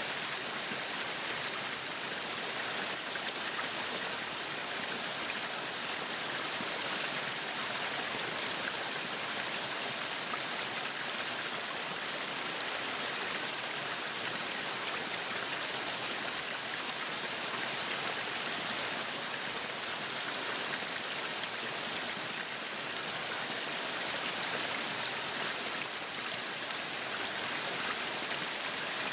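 Meat sizzling on a yakiniku grill: a steady, dense hiss that keeps the same level throughout.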